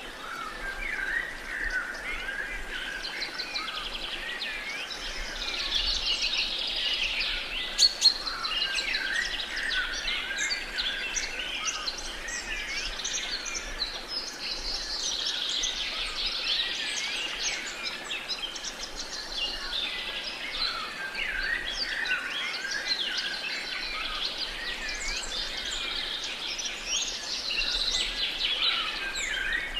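A dawn-chorus-like mix of many songbirds chirping and trilling over one another, above a faint steady hiss of outdoor background noise. A brief sharp click stands out about eight seconds in.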